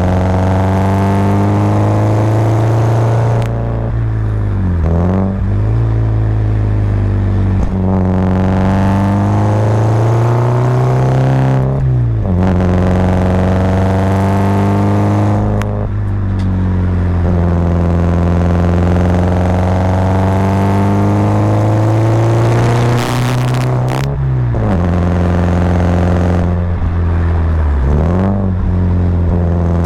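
Subaru Impreza WRX's boxer flat-four engine pulling hard, its note climbing steadily under throttle and then dropping sharply when the throttle is lifted, about seven times over.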